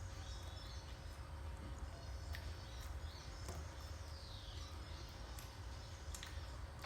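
Low, steady background rumble with a few faint, short bird chirps, one of them a falling whistle about four seconds in.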